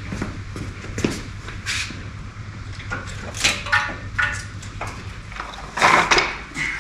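Scattered metallic knocks, clanks and scrapes of hands-on shop work on a car's engine and K-member, the loudest scraping near the end, over a steady low hum that stops a little after five seconds in.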